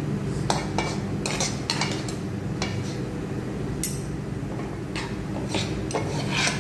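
A cooking utensil clinking and knocking against a pan while a stir fry is stirred. The strokes are irregular, over a steady low hum.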